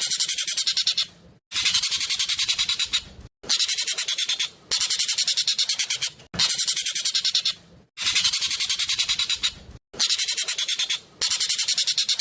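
Asian glossy starling (burung jovin) song: loud, fast phrases of rapid sharp notes, each about a second and a half long, repeating about eight times with brief breaks.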